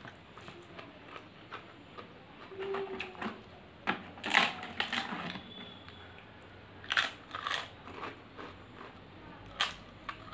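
Close-miked eating of crisp fried food: sharp crunches and chewing about four seconds in, again around seven seconds, and once more near the end, between quieter stretches.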